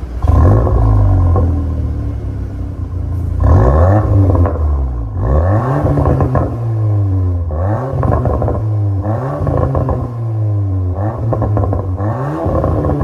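VW Golf R Mk8.5's 2.0-litre turbocharged four-cylinder engine (EA888 evo4) through an MS-R valved aftermarket exhaust, revved again and again, its pitch rising and falling back about every two seconds.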